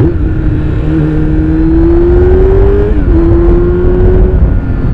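Kawasaki Z900's inline-four engine through an Akrapovic exhaust with the dB killer fitted, pulling up through the revs while riding. There is a gear change about three seconds in, then it holds steady revs and eases off near the end.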